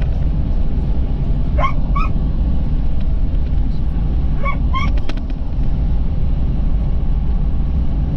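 Steady low road rumble inside a moving vehicle. Over it, a dog whines in two pairs of short rising cries, one pair about one and a half seconds in and another about four and a half seconds in.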